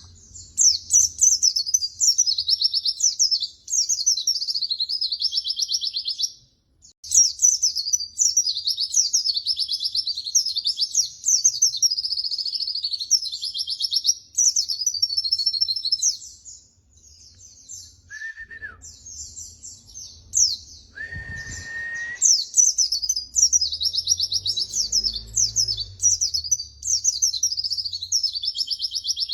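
White-eye (pleci) singing: long runs of rapid, high twittering phrases. There is a short break about six seconds in and a longer lull from about 16 to 20 seconds. Two brief, lower whistled notes come at about 18 and 21 seconds.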